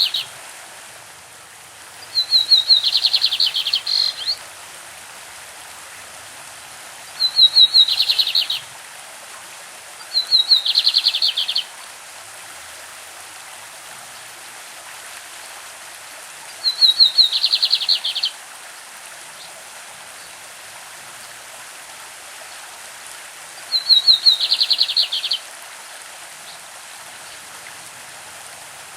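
A lined seedeater (bigodinho) singing its 'classic' song: five short phrases a few seconds apart, each a quick run of high notes falling into a rapid trill, with the tail of a phrase right at the start. A steady rush of running stream water underneath.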